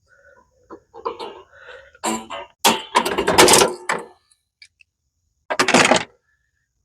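Scraping and clattering of metal parts as a drive belt is worked off a lawn tractor's pulleys. It is loudest for a second or so about halfway through, with another short burst near the end.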